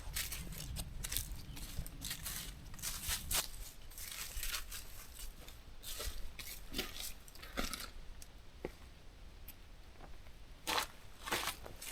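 Irregular crunches, crackles and scrapes, close up, with no steady rhythm.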